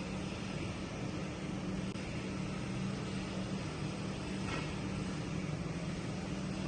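Twin-turbocharged engine idling with a steady low hum.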